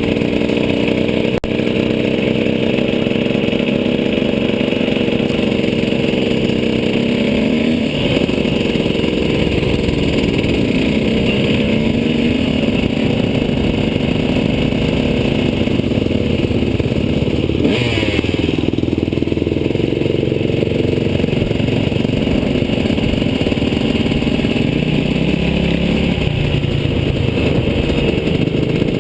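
KTM two-stroke motocross bike's engine being ridden hard, its pitch rising and falling with throttle and gear changes. It drops briefly about eighteen seconds in, then climbs again.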